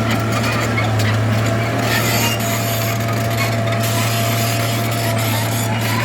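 Diesel engine of heavy earthmoving machinery running steadily, a constant low engine note under dense rattling noise.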